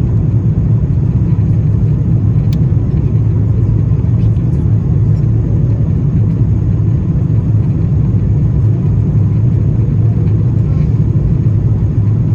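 Steady, loud cabin noise inside an Airbus A350-900 in flight: the low rumble of its Rolls-Royce Trent XWB engines and the rush of air over the fuselage, with a faint steady high tone over it.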